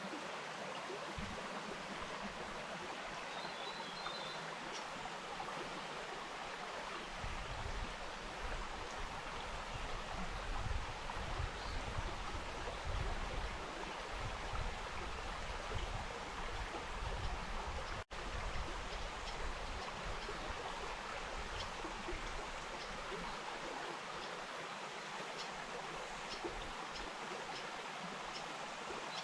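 Wainuitewhara stream flowing and splashing steadily over its bed, with a low rumble coming and going through the middle. The sound cuts out for an instant about two-thirds of the way through.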